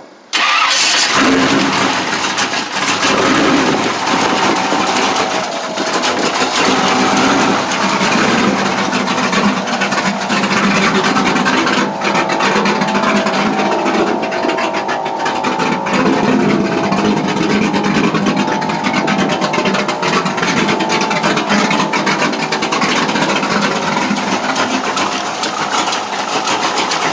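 Hot rod engine on a cold start: it fires up abruptly within the first second, then keeps running loudly.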